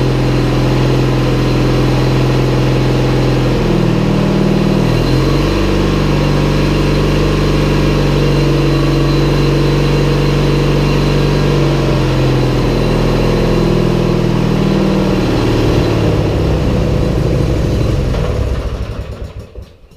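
Briggs and Stratton opposed-twin riding mower engine running after a starter repair. It speeds up about four seconds in, settles back down later, then is shut off and dies away just before the end.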